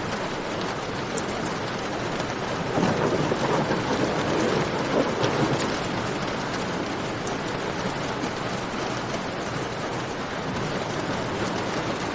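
Steady rain with faint campfire crackles on top. About three seconds in, a rumble of thunder swells up for around three seconds and fades back into the rain.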